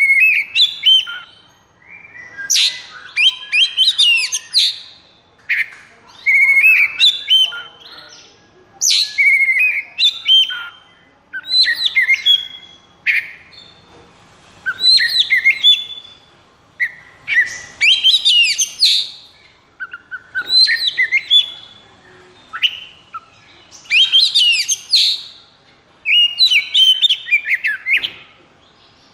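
Oriental magpie-robin (kacer) singing loudly in a fast run of short phrases. The phrases are varied whistles, rapid trills and harsh buzzy notes, each about a second or two long with only brief pauses between them. It is the excited 'konslet' song used as a master recording to set off other kacer.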